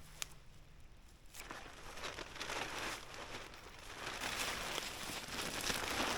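Plastic tarp rustling and crinkling as it is pulled and repositioned over a stick frame, rising and falling in waves after a quiet first second with a single click.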